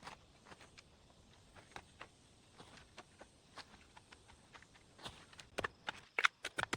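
Irregular light clicks and knocks, sparse at first, then louder and quicker over the last couple of seconds.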